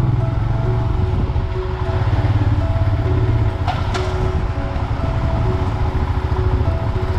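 A Royal Enfield Himalayan's single-cylinder engine running with a steady low throb, with a brief sharp noise a little before the middle.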